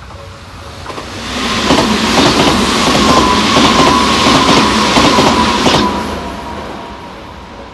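Tobu Series 100 Spacia express train passing at speed. Its wheels beat out a rhythmic clatter over the rail joints, over a thin high whine that sinks slightly in pitch as the train goes by. The sound swells about a second in, is loudest in the middle and fades out after about six seconds.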